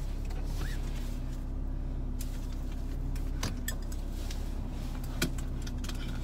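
Mercedes-Benz SLK R170's engine idling steadily, heard from inside the cabin, with a few light clicks and taps in the second half.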